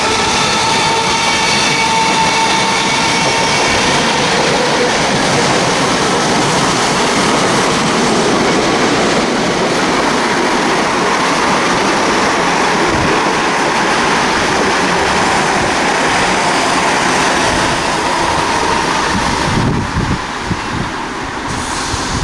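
Class 321 electric multiple units passing close by: a steady rush of wheels on rail, with a whine that fades away over the first few seconds. Near the end the noise eases and a lower, uneven rumble comes and goes.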